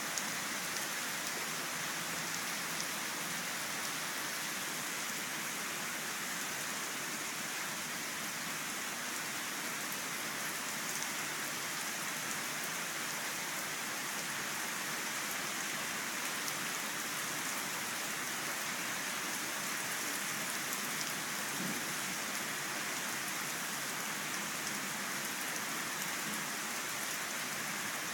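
Steady rain falling, an even hiss of drops pattering on surfaces with faint individual drop ticks.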